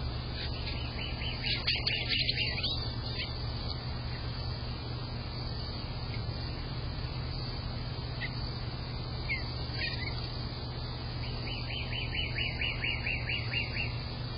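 A songbird singing a rapid series of evenly repeated notes, twice, about ten seconds apart, with a few scattered single chirps between, over a steady low hum.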